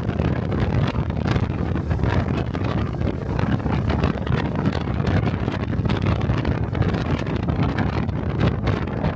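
Wind buffeting on the microphone of a moving motorcycle, over the steady running of a 125 cc Honda Cub's single-cylinder engine.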